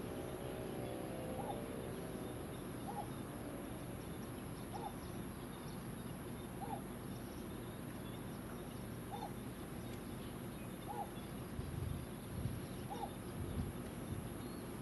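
A bird repeating one short call about every two seconds, seven times, over steady outdoor background noise, with a few low knocks near the end.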